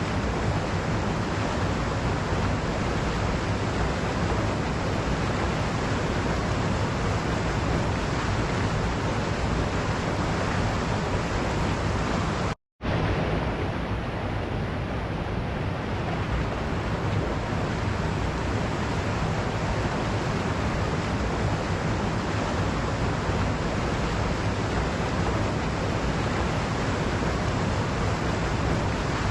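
Waterfall rushing steadily, an even wash of falling water. The sound cuts out completely for a split second a little under halfway through, then resumes.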